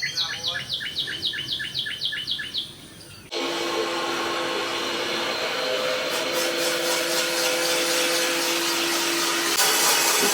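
A songbird sings a fast run of repeated chirps. About three seconds in, a cylinder boring machine cuts in suddenly and runs steadily with a humming tone, boring the cylinders of a Ford 302 V8 block dry.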